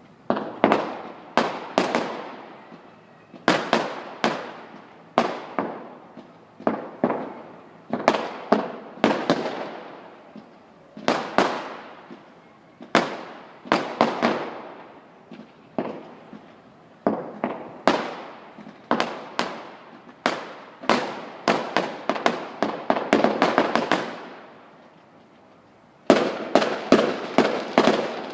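Fireworks going off: a long run of sharp bangs and crackling volleys coming in clusters every second or two, with a brief lull near the end before a dense, rapid volley.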